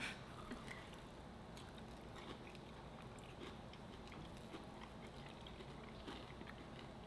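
Faint chewing and biting on crisp fried alligator bites: small scattered clicks and crunches over quiet room tone.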